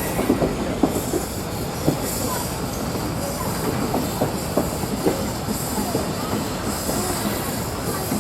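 Railway train rolling on the track, its wheels giving many short squeals and clanks over a steady rumble.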